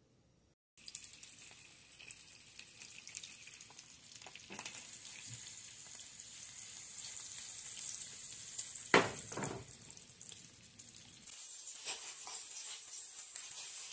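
Salmon fillets sizzling and crackling in hot oil in a frying pan, starting suddenly about a second in and growing slightly louder. A single sharp click about nine seconds in.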